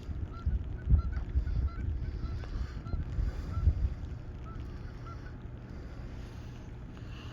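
Many short honking bird calls, scattered irregularly, over a low rumble of wind on the microphone.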